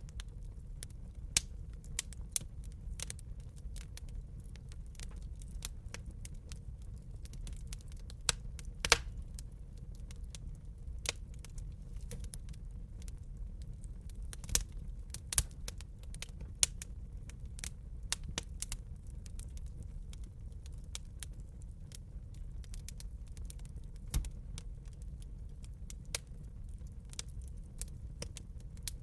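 Wood fire crackling in a fireplace: irregular sharp snaps and pops over a low steady rumble, with a handful of louder pops in the middle stretch.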